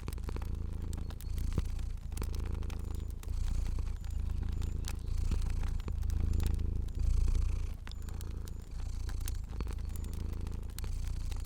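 Domestic cat purring close up, a low rumble that swells and eases about once a second with each breath in and out. Sharp pops and crackles of a wood fire are scattered through it.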